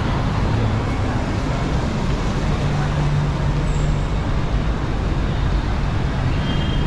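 BTS Skytrain electric train running on its track, heard from inside the car: a steady rumble, with a low hum that swells briefly about halfway through.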